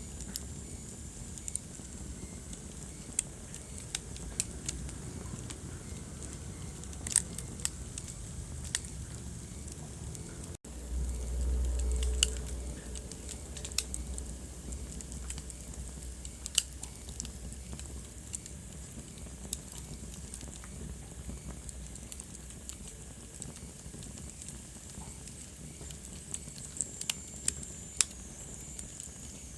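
Wood fire burning in a fireplace, crackling with frequent sharp pops over a steady soft hiss. About ten seconds in the sound cuts out for an instant, then a low rumble swells for a couple of seconds before the crackling carries on.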